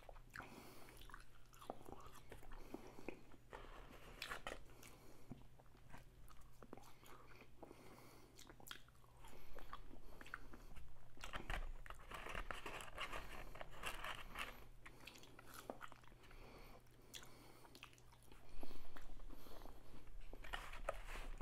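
Close-miked chewing of French fries: soft crunches and wet mouth clicks, in short louder stretches, over a faint steady low hum.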